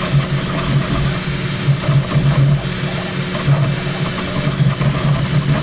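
Bambu Lab P1S CoreXY 3D printer printing at high speed: its stepper motors buzz in quick, uneven surges as the print head darts about, over a steady mechanical hum.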